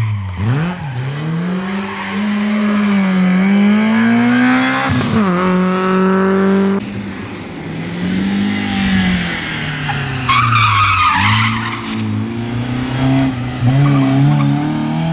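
Rally car engine driven hard, the revs climbing and dropping again and again through gear changes and lifts off the throttle, with tyres screeching briefly about ten seconds in.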